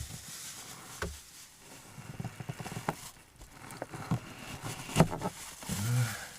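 A series of light knocks and clicks from cooking gear and utensils being handled while steaks are prepared, the loudest knock about five seconds in.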